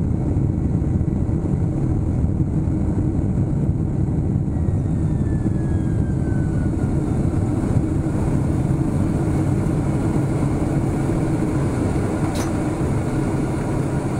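Steady low rumble inside a Boeing 767-300ER's cabin, with a faint whine falling in pitch about five seconds in and a single short click near the end.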